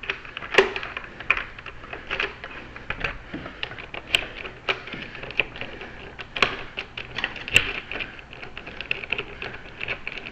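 Rapid, irregular small clicks and taps from a locksmith handling a door lock cylinder and its parts during a rekey, with a few sharper clicks standing out.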